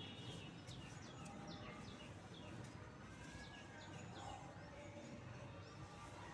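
Birds chirping faintly: a run of short, quickly falling high chirps, repeating every half second or so, over a low steady hum.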